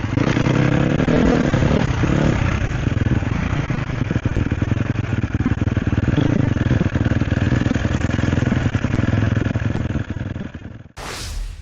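Sherco SEF 250's single-cylinder four-stroke engine running on an off-road ride, its pitch rising and falling with the throttle in the first couple of seconds. The engine sound drops away near the end and a brief rushing noise cuts in.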